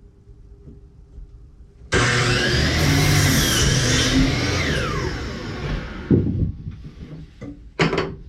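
An electric power saw switched on about two seconds in and run through a cut in wood. It is then released and winds down with a falling whine, followed by a couple of sharp wooden knocks near the end.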